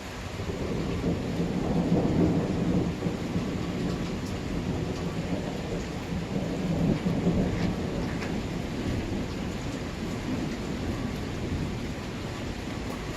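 Rolling thunder rumbling over steady rain. The rumble swells about a second in, peaks twice, then slowly fades back to the rain.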